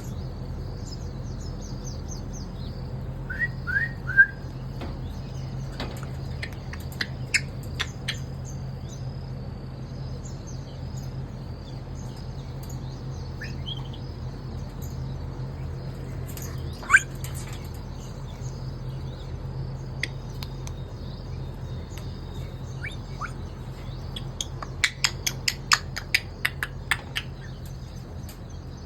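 Bird chirps and short whistles, scattered: three quick downward notes about three and a half seconds in, a sharp single downward note around the middle, and a quick run of clicks and chirps near the end, over a steady low hum.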